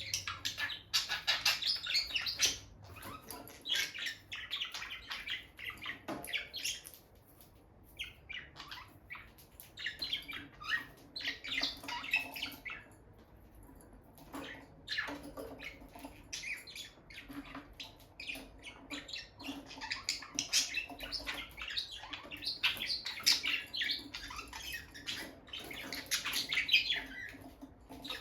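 Peach-faced lovebirds chirping: rapid runs of short, high chirps in bursts, with brief pauses between them.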